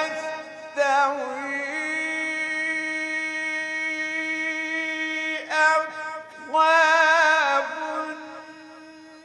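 A man reciting the Quran in the slow, melodic mujawwad style, drawing the vowels of 'lā yastawī aṣḥāb' out into long held notes with wavering ornaments. His voice sinks low near the end.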